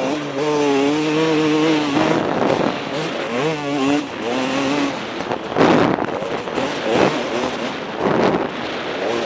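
KTM 250 SX two-stroke motocross engine being ridden hard, its note holding high, dropping and climbing again as the throttle is rolled off and on. In the second half the sound turns into rough, noisy surges.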